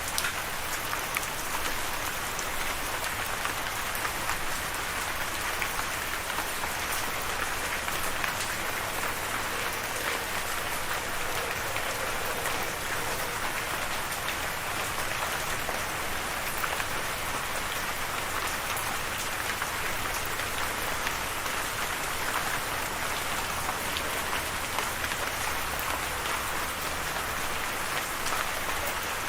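Steady rain falling on a surface, an even hiss dotted with individual drop ticks.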